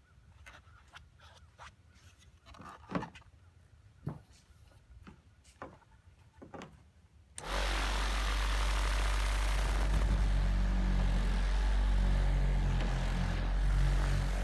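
A handful of faint clicks and taps, then about halfway through an AutoSpa 9–10 inch orbital car polisher switches on and runs steadily with a low hum as it buffs polish into the paint.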